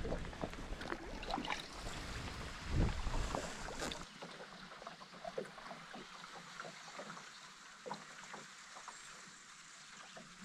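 Canoe paddling: paddle strokes and small splashes and drips in the water. Wind buffets the microphone for the first four seconds, then it is calmer, with only light splashes.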